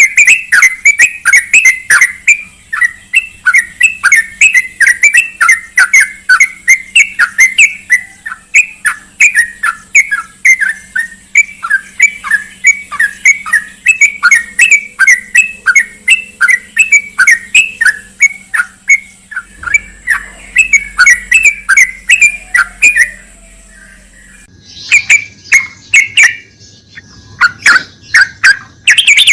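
Yellow-vented bulbul (trucukan) calling in a fast, steady run of short chirps, about three a second. The chirps break off for a second or two about 23 seconds in, then resume.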